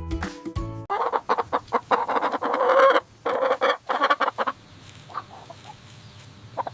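Chickens clucking, a dense run of loud calls starting about a second in, thinning to a few fainter clucks after about four and a half seconds.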